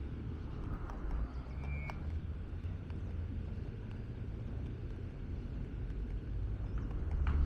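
Steady low rumble of outdoor ambience heard while walking, with a few faint clicks and a short high chirp just before two seconds in.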